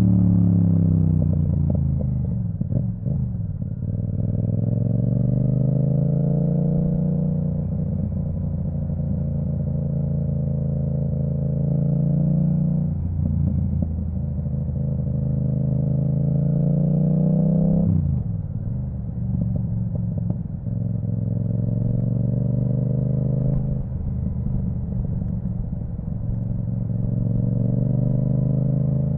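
2022 Yamaha MT-07's 689 cc parallel-twin engine through an Akrapovic full titanium exhaust with the dB killer removed, heard on the ride. The engine note falls off as the throttle closes, then rises slowly through the revs with an abrupt drop in pitch about every five seconds at each upshift, with crackling around the shifts.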